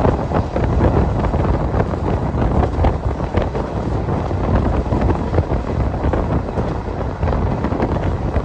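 Passenger train running: a steady, loud rumble with rattling, and wind buffeting the microphone.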